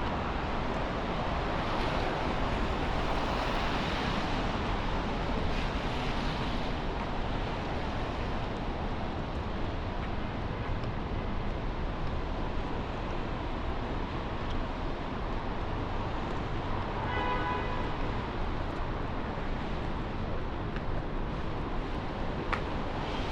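Steady street noise in the rain: a continuous hiss of rainfall and wet traffic passing on a city street. A brief pitched tone sounds once about three-quarters of the way through.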